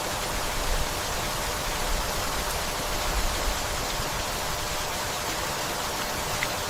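Steady rainfall, an even hiss with no single drops or events standing out.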